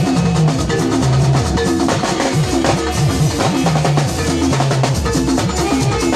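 Live gospel band playing an instrumental groove: drum kit with kick, snare and rimshots under a moving bass line and repeated guitar or keyboard notes.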